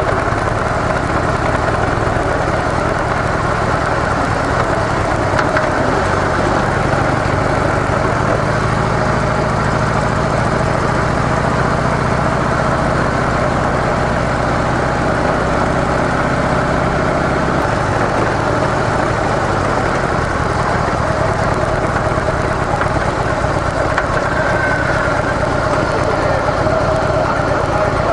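Harley-Davidson CVO Softail's V-twin engine with stock mufflers running steadily; a low drone in the sound cuts off suddenly a little past halfway.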